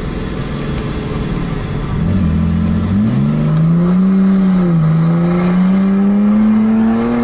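Tuned three-litre diesel straight-six of a BMW 1 Series E82 pulling hard under full acceleration, its pitch rising, dropping briefly at a gear change about five seconds in, then climbing again.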